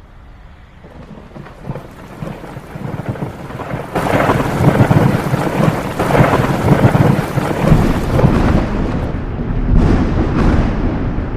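Thunder rolling in a thunderstorm over steady rain: the rumble builds over the first few seconds, turns loud about four seconds in and rolls on.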